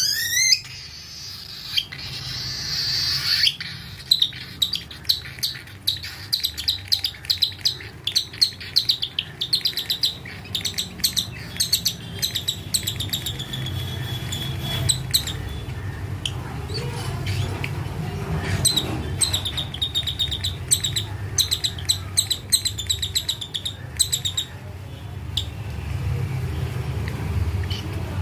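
Cockatiel chick giving rapid, rhythmic begging chirps during hand feeding, in long bouts with short pauses between them, over a low steady hum.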